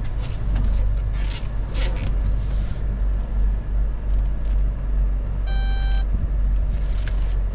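Car engine running with a steady low rumble. A single half-second electronic beep sounds about five and a half seconds in.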